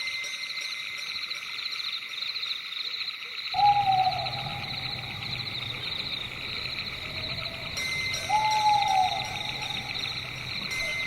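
An owl hooting twice, about four seconds apart. Each hoot lasts about a second and falls slightly in pitch, over a steady pulsing chorus of night creatures.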